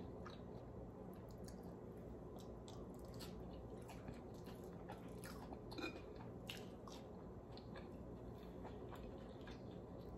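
Faint close-up eating sounds: a person chewing fried fish, with many small wet clicks scattered throughout, over a low steady hum.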